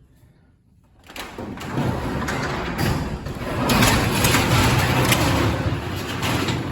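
Garage door rolling open, a steady mechanical rattle that starts about a second in and eases near the end.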